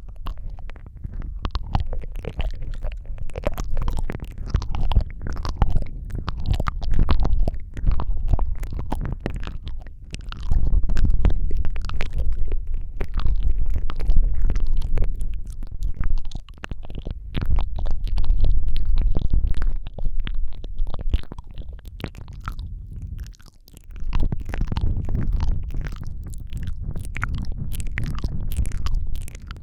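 ASMR mouth sounds close to the microphone: a dense run of wet clicks and smacks over a heavy low rumble, swelling louder in stretches.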